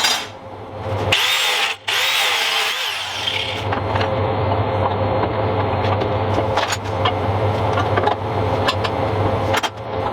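Metalworking tool running on steel parts: a wavering whine in the first few seconds, then a steady rough noise with scattered ticks.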